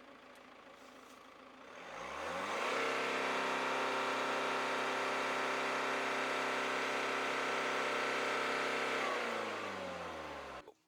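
Citroen C5 Aircross's diesel engine idling, then revved up over about a second and held steady at high revs for about six seconds, then dropping back toward idle, as in a sound-level rev test. The sound cuts off abruptly near the end.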